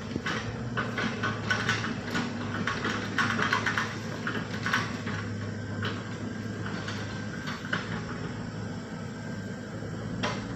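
A heavy machine's engine running steadily under a string of knocks and rattles, thickest about one to five seconds in, with one sharp knock near the end.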